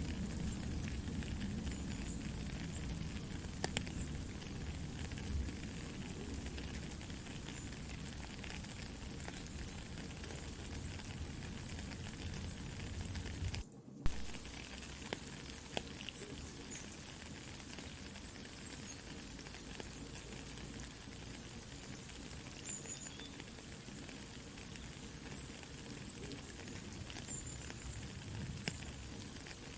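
Soft steady rain with a crackling campfire, scattered wood pops through the hiss. Near the middle the sound drops out for an instant, then a sharp pop follows.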